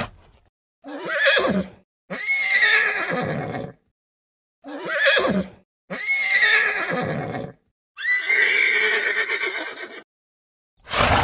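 Horse whinnying, several times over. Three long whinnies, each rising and then falling away, are set between shorter calls, with dead silence between them.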